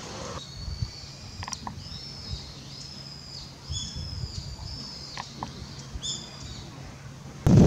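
Small birds calling outdoors: a series of short, high, arching chirps repeated over several seconds. Near the end, wind starts buffeting the microphone suddenly and loudly.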